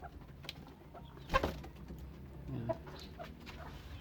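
Chickens clucking, with a single sharp knock about a second and a half in.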